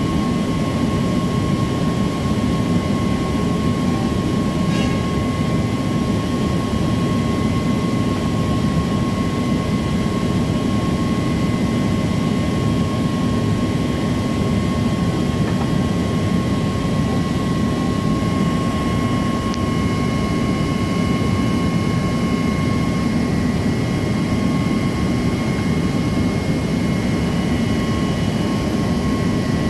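Steady loud drone of running machinery, with a constant high whine over it that does not change.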